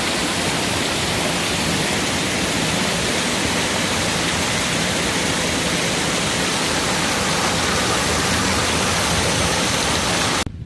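Waterfall, a steady rush of falling water that cuts off suddenly near the end.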